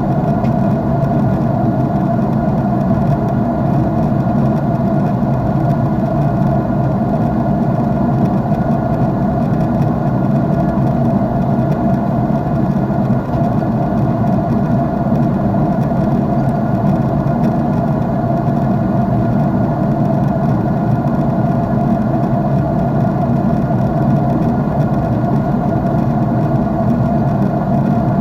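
Steady jet airliner engine noise heard inside the passenger cabin: an even rush with a low hum and a faint steady mid tone, unchanging throughout.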